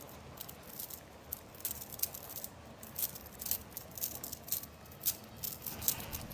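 Faint, irregular clicks and rustles, a few a second, over a low hiss.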